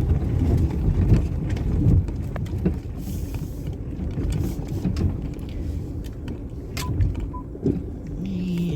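Car engine running as the car reverses slowly over river rocks. The tyres crunch on the stones, with scattered sharp knocks.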